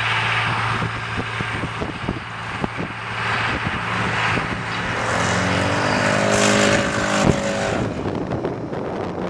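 RC model airplane's motor and propeller droning in flight, with a pass about five seconds in where the pitch bends as the plane goes by. Wind buffets the microphone throughout, and there is a short sharp knock near the end of the pass.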